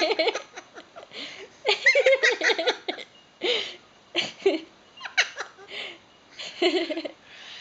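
Eclectus parrot vocalising: a string of short, wavering pitched calls mixed with sharp clicks, coming in separate bursts about a second apart.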